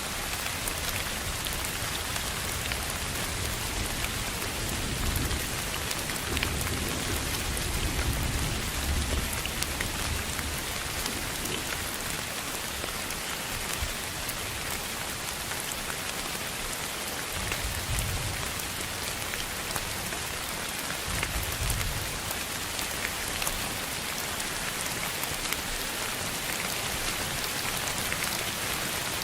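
Steady rain hiss with fine pattering drops, broken by a few soft low rumbles.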